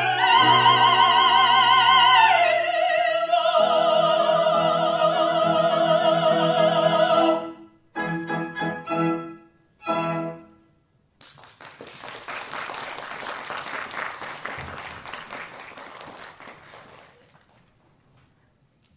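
An operatic voice with a wide vibrato ends a song on a long held note over orchestral accompaniment. The orchestra closes with three short chords about a second apart, followed by about six seconds of applause that fades away.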